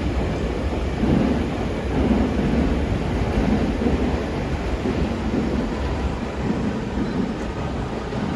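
A train consist rolling past on the rails, an EF65 electric locomotive hauling new Toei 6500-series subway cars: a heavy, steady rumble of wheels with a rhythmic beat about once a second as the wheels cross the rail joints.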